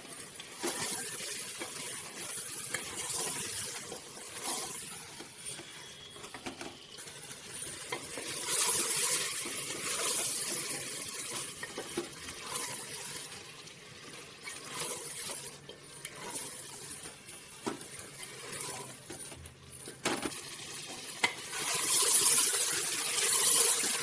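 Chicken frying in thick masala in an aluminium pressure cooker, sizzling in swells as a wooden spatula stirs and turns it, with scrapes and light knocks of the spatula against the pot. The sizzle is loudest near the end.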